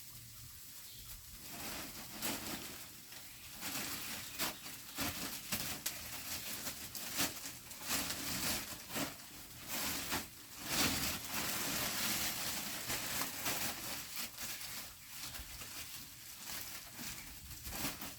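Food frying in a pan, a steady sizzle with irregular crackles and scraping stirring strokes.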